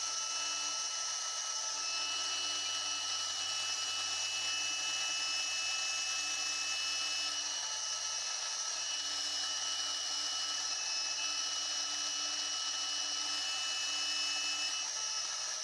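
Machine spindle motor running steadily, with an even low hum and a high-pitched whine, on the machine being used to drill holes in an aluminium bar.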